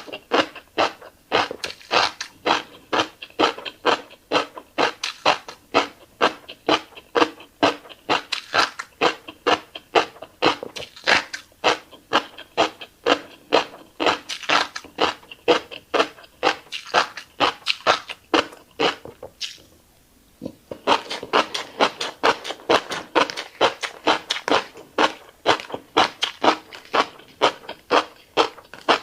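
Close-miked chewing of fish roe: a steady run of wet smacking and popping mouth sounds, about three a second, breaking off briefly about two-thirds of the way through.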